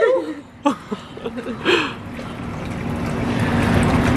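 Water running and trickling in a marine touch tank over a steady low pump hum, the water sound growing louder through the second half, with a few brief voice fragments in the first two seconds.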